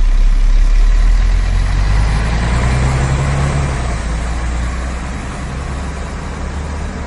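Bus engine sound effect: a vehicle engine running with a deep, steady rumble that slowly fades.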